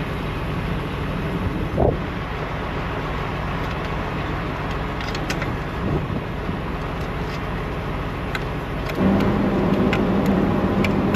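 Truck diesel engine idling with a steady low hum, stepping up louder about nine seconds in. A few light metallic clicks sound over it.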